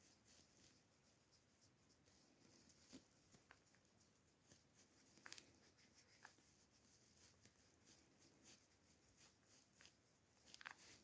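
Near silence with faint, scattered rustles and light clicks.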